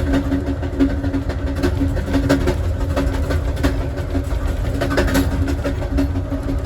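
Passenger train in motion, heard from inside the last car: a steady low rumble of wheels on rail with a constant hum, and sharp clicks now and then.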